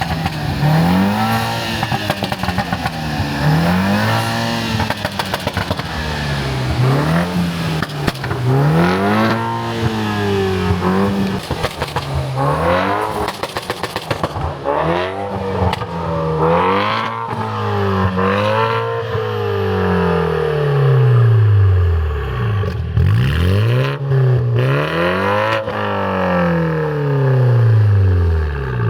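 Car engine revved again and again, its pitch climbing and dropping back every second or two, with longer, slower revs in the second half.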